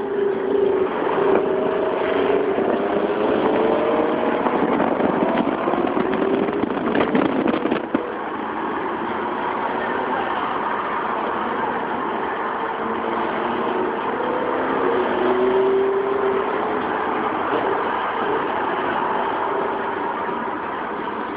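Car engines and road noise heard from inside a moving car through a phone microphone, the engine note rising and easing. It is louder for the first eight seconds or so, then drops suddenly.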